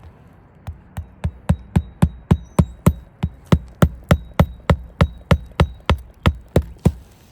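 Hammer driving roofing nails into an asphalt shingle: a steady run of sharp strikes, about four a second. The strikes start about a second in and grow louder over the first second.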